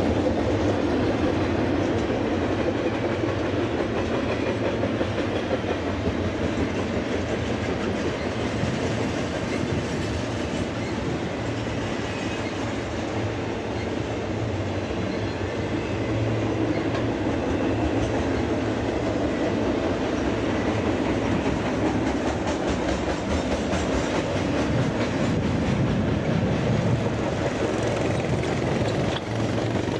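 Double-stack intermodal freight train's well cars rolling past steadily at close range, their steel wheels clicking over the rails.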